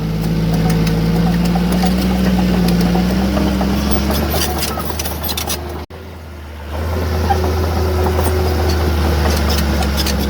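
Heavy earthmoving machine's diesel engine running, its pitch sagging and then rising again, with scattered clicks and clanks. The sound cuts out abruptly about six seconds in and comes back as a steady low engine drone.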